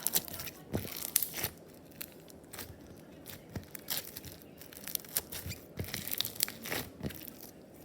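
A small sky-blue slime being squeezed and stretched by hand, giving irregular sticky crackles and pops.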